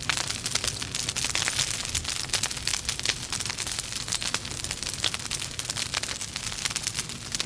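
Logs burning in a fireplace, crackling with many quick, irregular snaps and pops over a steady hiss of flame.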